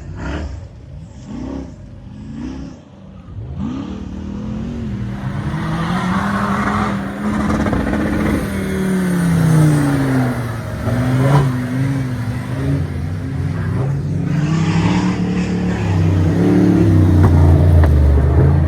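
Off-road racing car engine revving hard, its pitch climbing and dropping again and again. It is quieter for the first few seconds and loudest near the end.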